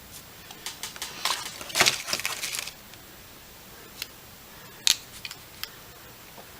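Small hard objects being handled on a workbench: a flurry of clicks, clinks and rustles for about two seconds, then a few single clicks, one sharp and loud about five seconds in.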